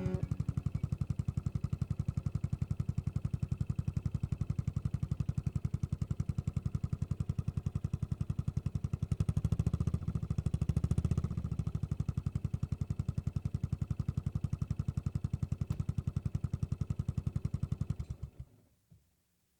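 Yamaha SR400's single-cylinder engine idling through a slip-on cone muffler, an even rapid thump. It swells briefly about halfway through, then is switched off and stops abruptly near the end.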